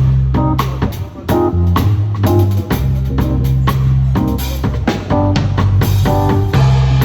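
Live band playing an instrumental passage: a drum kit beating a steady groove over deep, held bass notes and guitar chords, with no singing.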